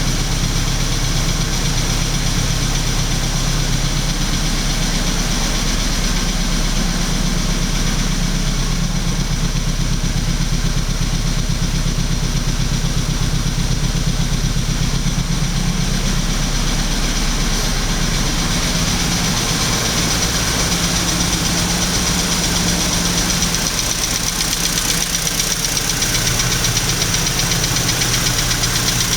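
BMW 320Si's four-cylinder petrol engine idling steadily after a cold start. The engine has a fault that the seller says needs attention.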